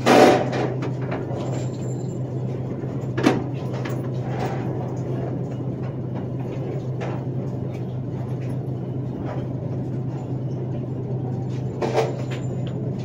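Steady low hum of an indoor shooting range's air handling, broken by three sharp knocks or bangs: a loud one at the very start with a short ringing tail, and smaller ones about three seconds and twelve seconds in.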